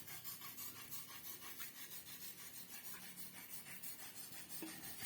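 Rhythmic rubbing strokes, about three to four a second, like hand work on a surface.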